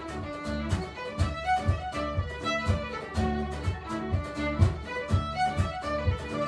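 Fiddle playing a lively Celtic folk tune over a steady, regular rhythm of strummed and plucked accompaniment with bass.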